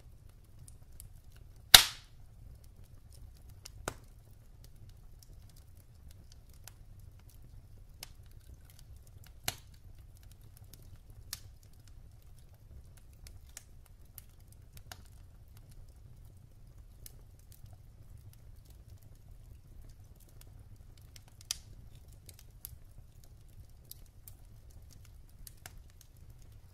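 Wood fire in a fireplace crackling, with sparse, irregular pops of the burning logs. One loud pop comes about two seconds in, and smaller snaps follow every few seconds over a faint low rumble.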